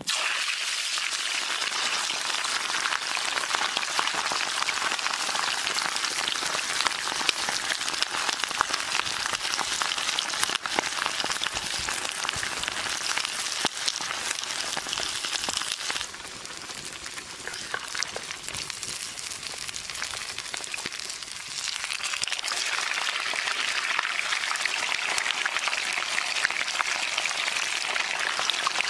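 Pork frying in hot oil in a cast-iron pan: a loud, steady sizzle full of fine crackles, starting suddenly as the meat goes into the oil. It eases for a few seconds past the middle, then picks up again.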